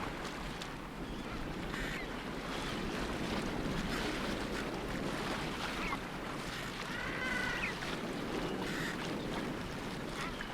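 Steady rush of wind and sea water around a sailing yacht under way, with a few short high calls or squeaks, the clearest a double cry about seven seconds in.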